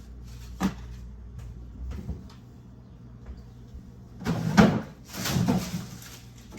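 Household kitchen clatter: a sharp knock about half a second in, a lighter one near two seconds, then two louder knocks with rattling past the middle, like cupboard doors being shut and dishes being handled.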